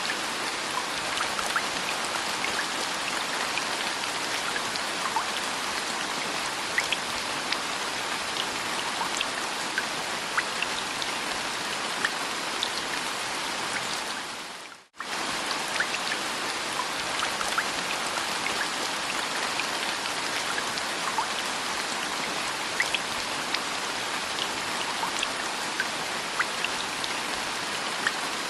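Steady rain, an even hiss with scattered single drips standing out. About halfway through it cuts out almost to silence for a split second, then comes straight back.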